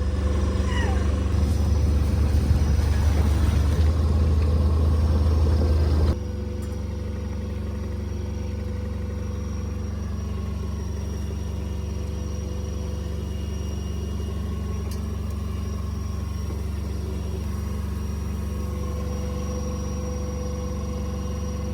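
A sailboat's inboard engine running with a steady low drone and hum, with a hiss over it for the first six seconds. About six seconds in the sound steps down to a quieter but equally steady drone.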